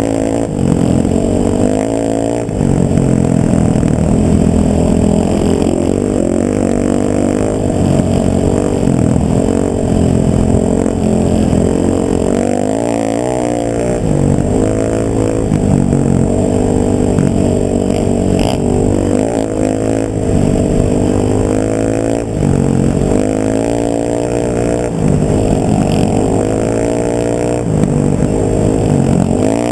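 Motor vehicle engine running under way, its pitch repeatedly climbing and dropping back as it accelerates and shifts through the gears.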